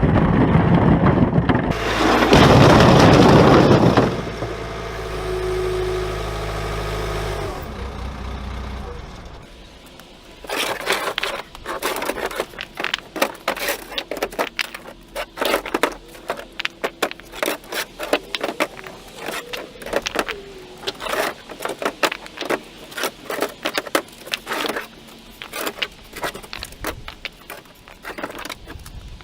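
Concrete blocks crashing down into a pickup's composite truck bed in one heavy, loud rush lasting a few seconds. A steadier machine drone follows, then from about ten seconds in a long run of sharp knocks, clacks and scrapes.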